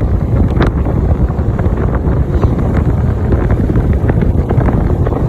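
Wind buffeting the microphone over a running snowmobile, a steady loud rumble with uneven gusty crackle.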